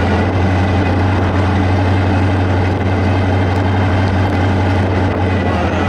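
Engine of a 1929 Essex rat rod running steadily, a constant low drone that holds its pitch.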